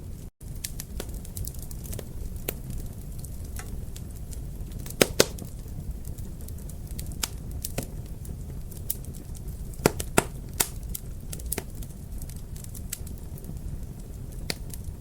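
Wood fire crackling in a fireplace: a steady low rumble of burning with frequent sharp pops and snaps. The loudest pops come as a pair about five seconds in and as a quick run of three around ten seconds, with the sound cutting out for an instant just after the start.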